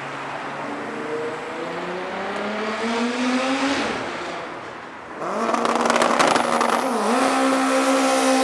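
A racing car engine accelerating, its pitch rising over the first four seconds, then fading. About five seconds in, a louder engine cuts in suddenly and is held at steady high revs, with a brief drop in revs near seven seconds.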